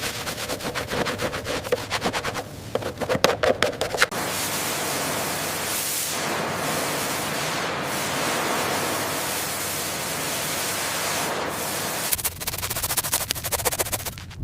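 Workshop noise from metal restoration work: a fast run of sharp clicks for about four seconds, then a steady loud hiss for about eight seconds, then rapid clicks again near the end.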